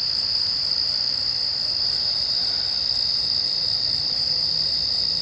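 Steady high-pitched trilling of night insects, an unbroken chorus that holds the same pitch and level throughout.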